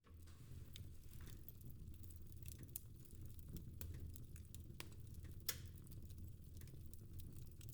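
Fire crackling in a fireplace: irregular small pops and snaps over a low steady hum, with one sharper pop about five and a half seconds in.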